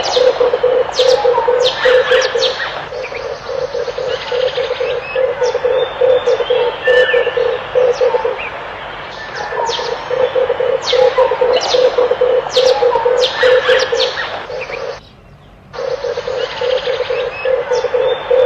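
Red turtle doves cooing in quick, pulsing runs of a few seconds each, with other birds' sharp chirps over them. The sound cuts out briefly about 15 seconds in.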